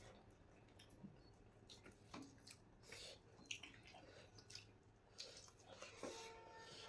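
Faint chewing and mouth smacks of people eating, with scattered soft clicks.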